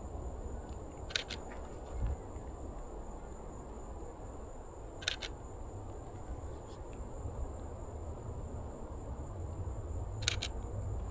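Canon EOS RP camera shutter firing three times, a few seconds apart, each shot a quick double click. A steady high-pitched insect drone runs underneath.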